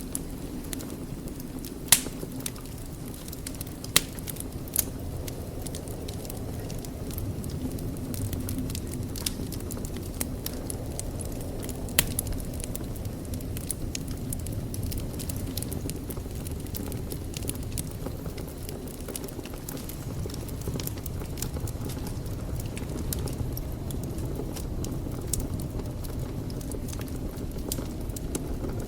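Wood fire burning in a fireplace: a steady low rumble with continual crackling, and a few sharp, louder pops, the loudest about 2, 4 and 12 seconds in.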